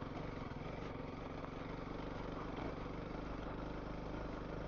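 Honda CRF300L dual sport motorcycle's single-cylinder four-stroke engine running steadily as the bike is ridden along a dirt trail.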